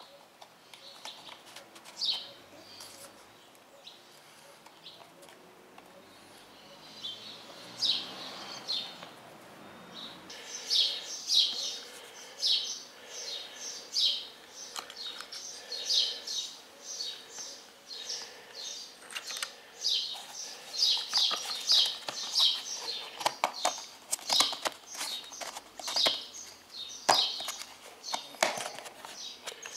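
Birds chirping in quick runs of short, high notes. There are scattered clicks and knocks from the trimmer's plastic spool and spring being fitted by hand, more of them near the end.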